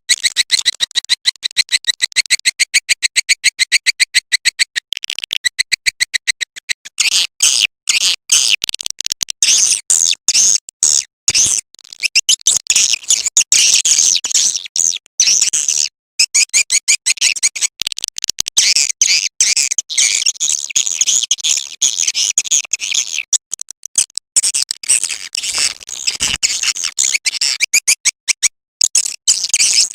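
Swiftlet call recording: high-pitched swiftlet chirps and twitters. A fast, even run of chirps goes for about the first five seconds, then gives way to denser overlapping twittering broken by short gaps.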